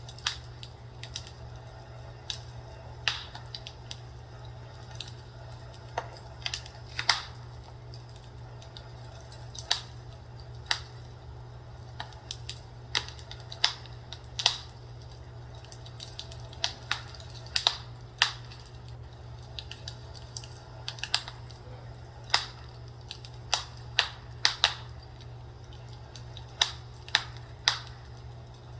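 Fireplace crackling: irregular sharp pops and snaps, several close together at times, over a steady low hum.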